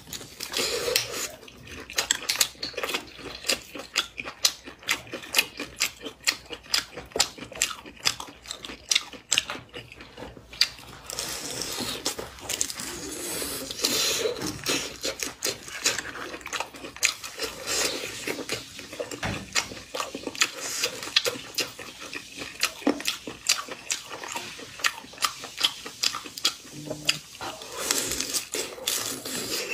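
Close-miked mouth sounds of a woman biting and chewing soft, saucy spicy food: a dense, irregular run of wet clicks and smacks.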